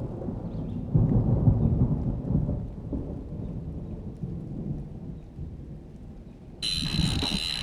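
Thunder rumbling, loudest about a second in and then slowly fading. Near the end a steady hiss of rain cuts in suddenly.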